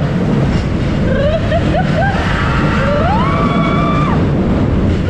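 Roller coaster ride heard from on board: a steady loud rumble of the train and rushing wind, with riders screaming over it. There are short rising yelps, one long rising scream held for about a second in the middle, and another rising shriek at the end.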